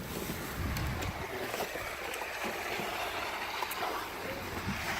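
Wind blowing outdoors and rumbling on the microphone: a steady rushing hiss with an uneven low rumble underneath.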